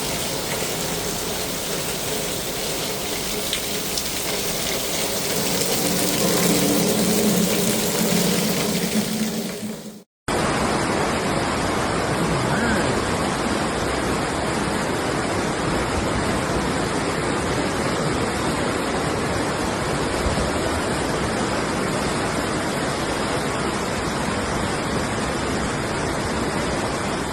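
Floodwater rushing in a steady, continuous torrent. It cuts out for a moment about ten seconds in, then carries on.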